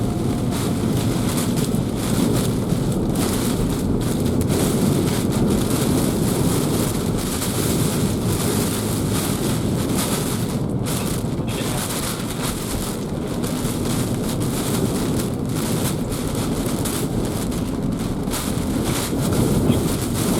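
Hurricane Ian's wind and driving rain: a steady, loud rush with wind battering the microphone.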